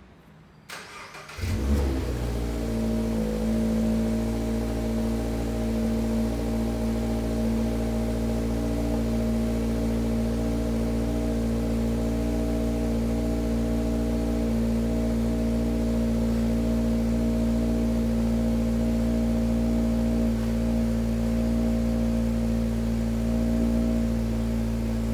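Toyota GR86's 2.4-litre flat-four started through a GR Sports aftermarket muffler: a click, then the engine catches about a second and a half in with a brief flare and settles into a steady idle.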